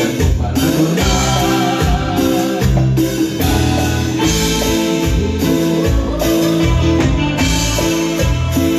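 Band playing Latin dance music with a steady beat, drums and bass.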